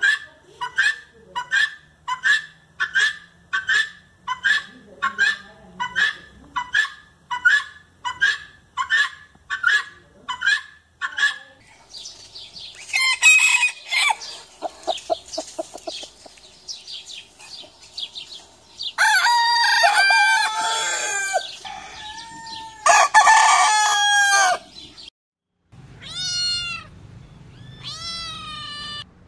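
Helmeted guinea fowl giving a long run of harsh, evenly spaced calls, about two a second, for the first eleven seconds. Then a rooster crows three times. Near the end a cat meows twice.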